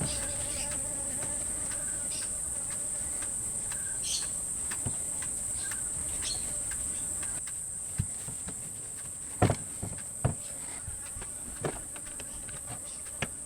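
A steady high-pitched insect drone, like crickets, runs behind scattered light clicks and knocks from a motorcycle brake master cylinder and its hose being handled on a workbench. The knocks grow sharper and more separate in the second half.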